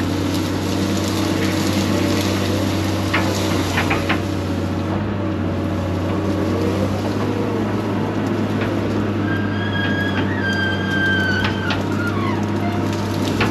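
Land-clearing machine's engine running steadily as it works, with a few sharp cracks about three to four seconds in. Near the end a high squeal sounds for about two seconds, like the screech from a pivot joint that has no grease fitting.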